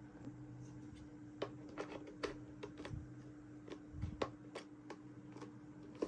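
Small plastic toy pieces clicking and tapping as they are handled, in irregular light knocks with a few sharper ones, over a faint steady hum.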